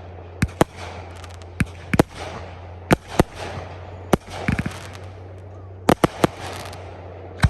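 Fireworks going off: about a dozen sharp bangs at irregular intervals, some in quick pairs, with crackling between them over a steady low hum.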